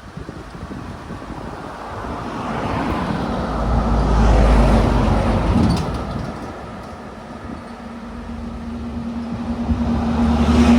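Motor vehicles passing on the highway: one swells and fades about halfway through, and another draws close near the end with a steady low engine hum.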